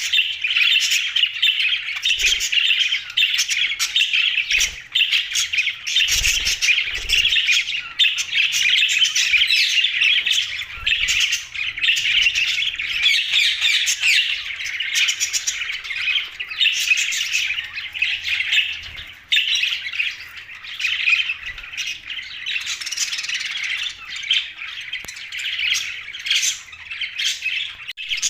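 A flock of budgerigars chattering, with many overlapping chirps and squawks that never let up.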